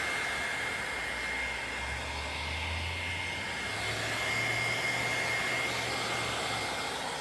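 Heat gun blowing steadily with a thin, high whine, heating vinyl wrap film to soften it for stretching over car trim.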